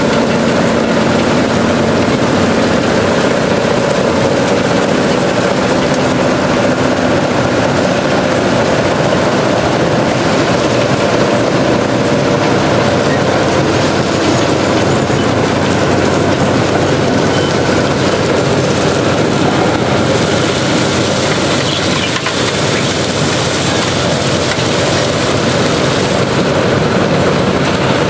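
Railroad ballast cleaning machine at work on the track: a loud, steady mechanical din that does not let up.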